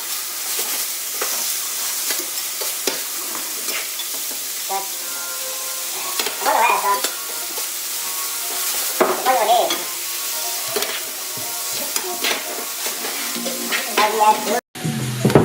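Chicken breast pieces sizzling in hot oil in a pan on high heat, with a utensil stirring and scraping the meat in short clicks. The sound cuts out briefly near the end.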